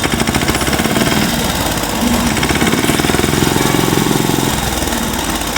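Tractor-style engine chugging with a fast, steady rapid beat.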